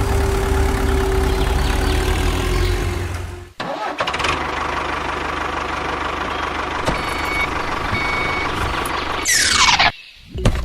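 Small machine running steadily with an engine-like drone. It cuts off sharply about three and a half seconds in and starts again straight away, and a quick falling whoosh comes near the end.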